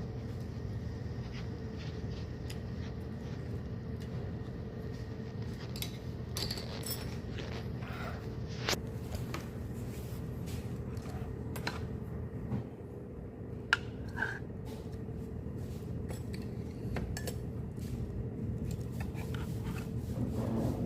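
Dishes and utensils clinking and tapping now and then over a steady machine hum, with sharper clinks about a third and two-thirds of the way in.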